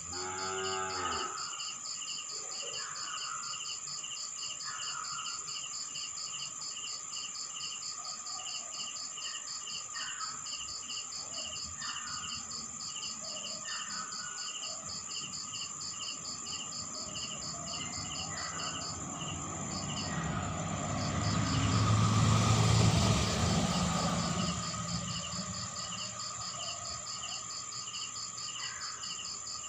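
Night insect chorus of crickets: a steady high trill and two layers of rapid, evenly repeated chirps, with scattered short chirps. A brief low animal call lasts about a second at the start. About two-thirds through, a passing motorcycle swells to the loudest sound and fades away.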